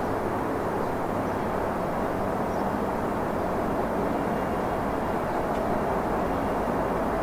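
CSX freight train rolling past with a steady, even rumble.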